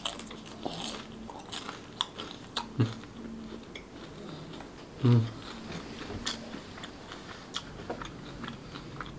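A person chewing a bite of crispy fried spring roll (popiah goreng) with the mouth closed, close to the microphone: irregular crunches and small crackles of the fried wrapper.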